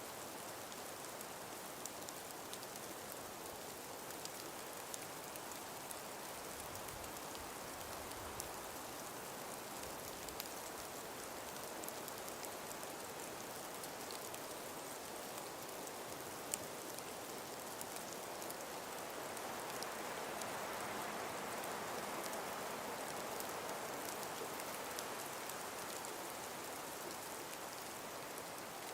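Calm winter breeze through a frost-covered forest: a steady, even rush with faint scattered ticks, swelling a little about two-thirds of the way in.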